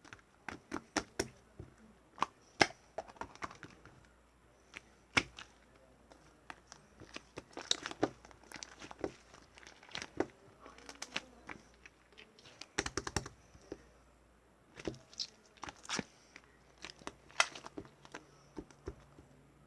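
Hands squeezing and stretching marbling slime, making irregular sharp clicks and pops, some in quick clusters.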